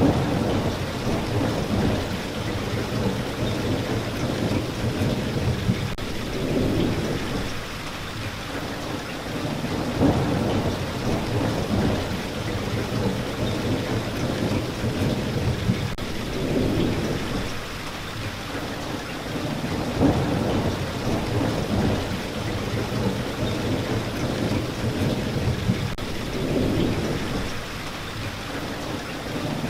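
Steady heavy rain, with low rumbles of thunder swelling and fading every few seconds.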